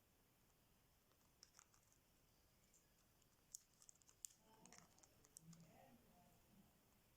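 Faint, scattered sharp clicks and crackles, a grey parrot's beak working on cashew nuts, clustered from about a second and a half to five and a half seconds in.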